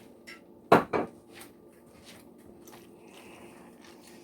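Two sharp knocks of kitchenware, a utensil against a pot or dish, about a quarter second apart and about a second in, over a faint steady hum.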